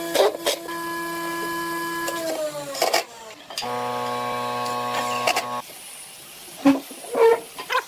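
A small electric motor, likely a workshop power tool, running with a steady whine that sags slightly in pitch and stops about three seconds in. A lower-pitched motor hum follows and cuts off suddenly. Sharp knocks come throughout, the loudest two near the end.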